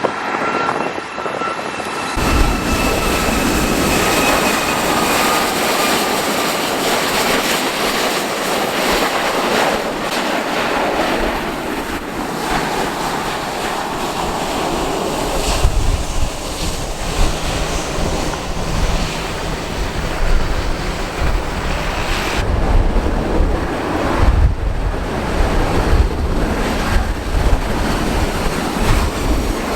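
Strong wind buffeting the microphone over the steady rush of a jet airliner at the airport. In the first few seconds a thin engine whine slides slowly down in pitch.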